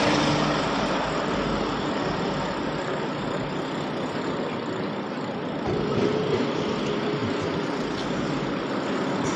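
Steady road traffic noise: vehicle engines and tyres running along a city street.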